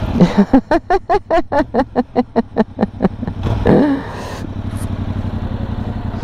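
Motorcycle engine idling steadily. Over it, a rapid run of about fifteen short pitched pulses, roughly five a second, ends in one longer, louder call.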